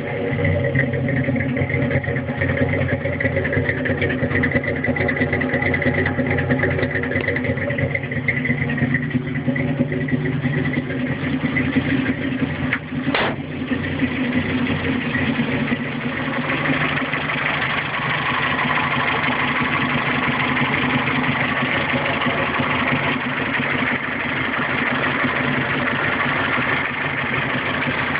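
1962 Datsun L320 pickup's four-cylinder engine idling steadily, with a single sharp click about halfway through.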